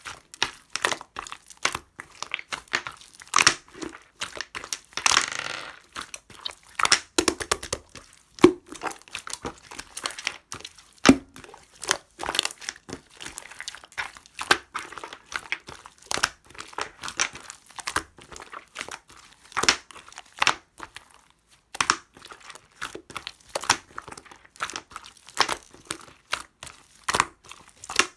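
Clear slime being squeezed and stretched by hand, giving irregular sticky pops and crackles, some in quick runs.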